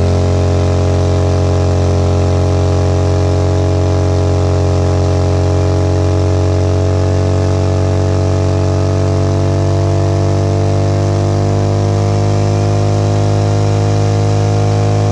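Harley-Davidson V-twin engine held at steady high revs in a burnout, spinning a rear tire that has already popped.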